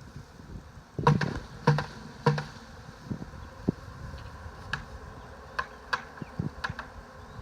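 Honeybees from a swarm buzzing, broken by three loud sharp knocks in the first half and a few lighter taps later on.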